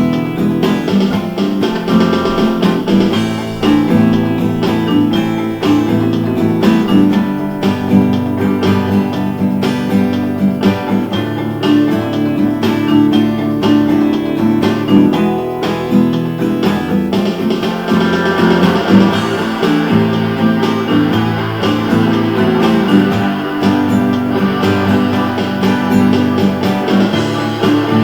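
Guitars strumming a steady rhythm in an instrumental rock passage with no singing. The sound grows brighter about two-thirds of the way through.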